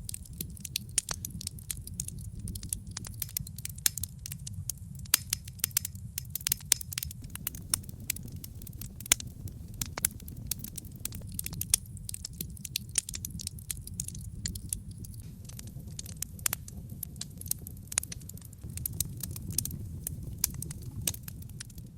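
Wood fire burning on logs in a fireplace: dense, irregular crackling and sharp pops over a steady low rumble of the flames.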